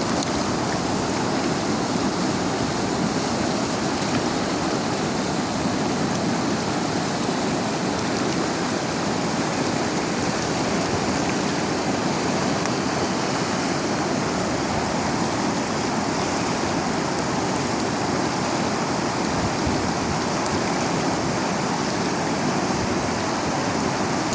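Fast mountain river or stream rushing, a steady, unbroken noise of running water.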